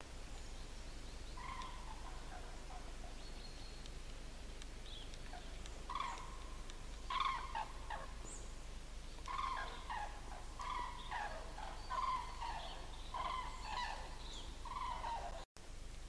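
A bird calling in woodland: a few short calls from about a second and a half in, then a run of short pitched calls about one a second from around six seconds in.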